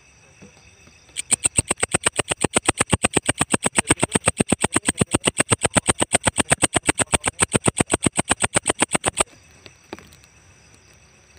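Walang ecek katydid calling: a loud, rapid, even train of dry chirps, about six a second, lasting some eight seconds and then stopping abruptly.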